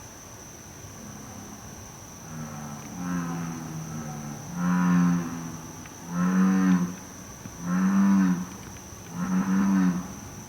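American bullfrog calling: a series of deep, droning calls, faint at first about two seconds in, then louder, repeating about every second and a half.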